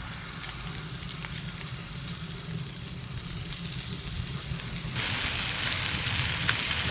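Campfire burning with a low rumble and a few faint crackles. About five seconds in, a loud sizzle of food frying in oil on a hot stone over the fire starts up.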